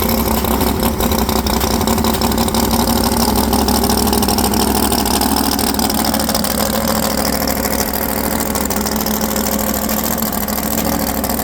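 Drag car's engine idling loudly and steadily, holding an even pitch without revving.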